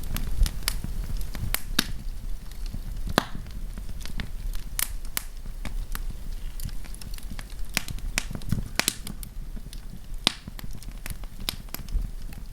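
Wood campfire crackling: irregular sharp pops and snaps of burning wood, a few each second, over a low steady rumble.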